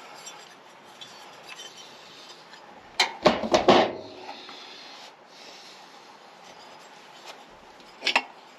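Hand tools and metal parts knocking and clinking: a short clatter of several sharp knocks about three seconds in and a single clink near the end, over low shop room noise.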